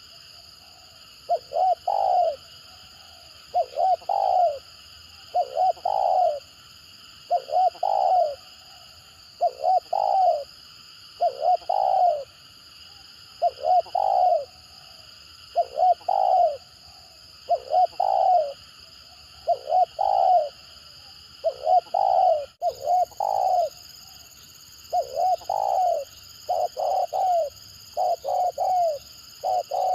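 Spotted dove (tekukur) cooing over and over in its stuttering 'gagap' style: short phrases of two or three quick coos, about one every two seconds. A steady high-pitched hum runs underneath.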